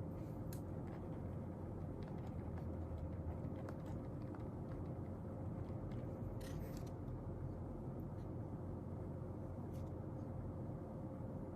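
Quiet room tone with a steady low hum and a faint held tone, broken by a few soft, brief scratches or clicks of desk work, the clearest about six and a half seconds in.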